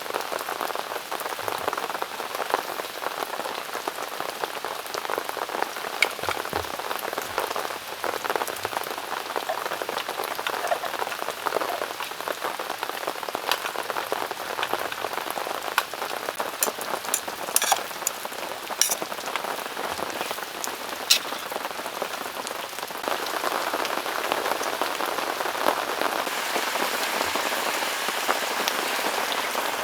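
Heavy rain pouring down in a steady hiss, with scattered sharper drops and taps; the downpour grows a little heavier about two-thirds of the way through.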